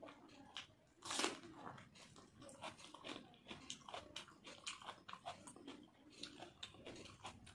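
Close-miked chewing sounds of a person eating: a steady run of small mouth clicks and smacks, with one louder one about a second in.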